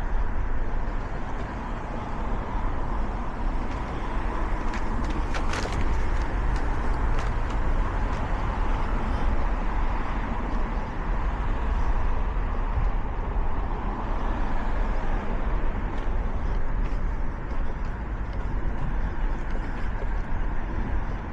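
Steady road traffic with engine hum and tyre noise, and a few brief clicks about five to seven seconds in.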